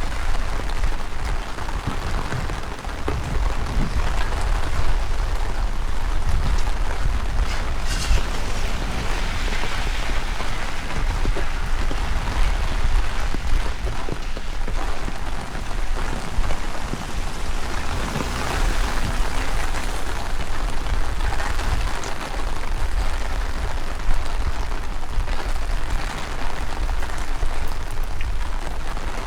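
Heavy rain falling and splashing on the ground, with strong wind gusting and buffeting the microphone in a low rumble that swells and eases.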